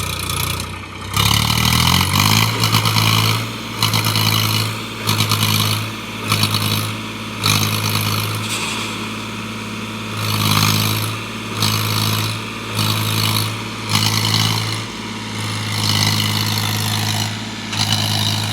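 Tractor engine revving up about a second in, then running hard at a steady pitch with repeated loud surges of noise, as it strains to pull a trailer of sugarcane that is stuck.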